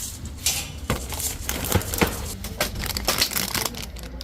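Rustling and crinkling of material being handled, with many irregular light clicks and knocks.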